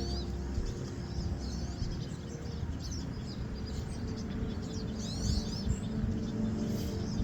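Small songbirds chirping and twittering in quick, repeated calls over a steady low rush of water, with faint music in the background near the start.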